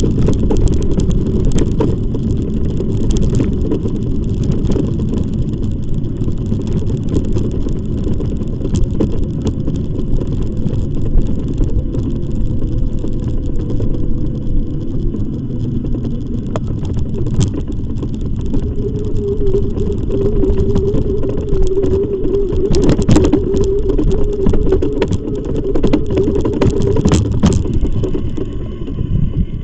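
Steady loud rumble of wind on the microphone and tyre noise from a moving e-bike, with scattered clicks and knocks. A steady hum joins in for several seconds about two-thirds of the way through.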